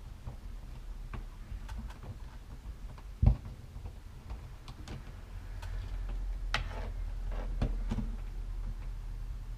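Scattered small clicks and taps of hands working plastic wire nuts and wiring at a ceiling electrical box, with one sharp knock about a third of the way in.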